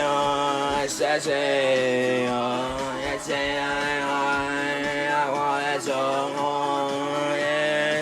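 Singing in long held notes, each held for two or three seconds with a slight waver, chant-like, over a steady low hum.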